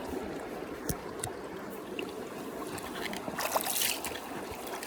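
Small creek flowing and trickling in a steady rush, with a few faint knocks and clicks.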